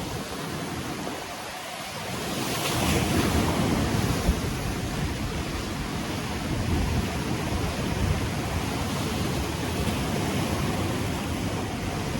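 Ocean waves breaking and washing on the shore, with one wave swelling louder about two seconds in, and some wind on the microphone.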